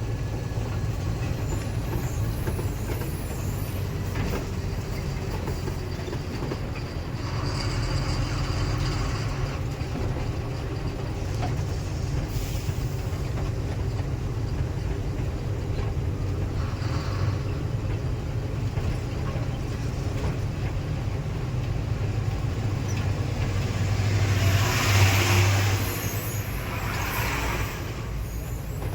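Loaded truck running downhill on a steep mountain descent, heard from inside the cab as a steady low engine and road rumble. Several louder hissing surges come through, the loudest near the end.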